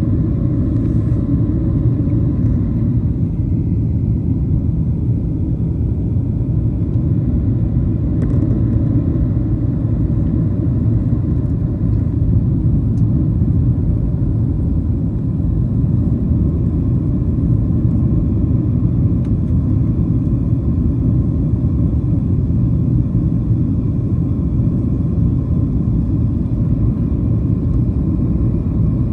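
Steady cabin rumble of a Boeing 737-700 in flight, heard from a window seat: airflow and the CFM56-7B engines make an even low roar with faint steady tones above it.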